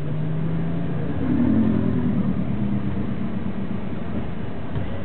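BMW 335i's turbocharged 3.0-litre straight-six heard from inside the cabin, running at low revs as the car creeps forward, with a brief gentle rise in revs about a second in that eases back down.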